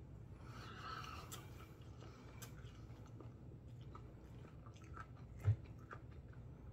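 Faint chewing and mouth sounds of a man eating a chicken sandwich, with scattered small clicks and a short low thump about five and a half seconds in.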